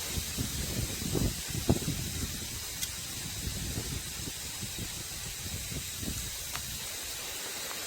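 Kit parts being handled and unpacked: soft bumps and knocks, most of them in the first two seconds, over a steady background hiss.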